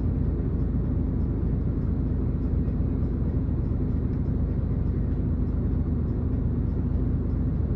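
Miyazaki Kotsu route bus's diesel engine running steadily, heard from inside the passenger cabin, a low unchanging drone over road and cabin noise.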